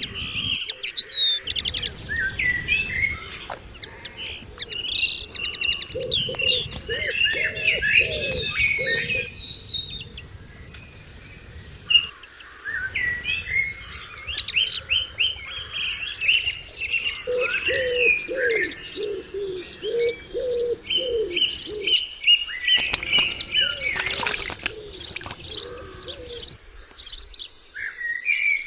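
Wild birds singing and calling, many short high chirps overlapping. Twice there is a lower call repeated several times in a row.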